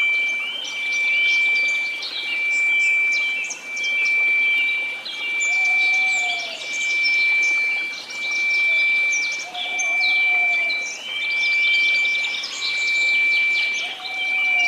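Synthesised 2334 Hz pure tone held steady over white noise, mixed with birdsong chirps; the whole mix swells and fades regularly about every second and a half.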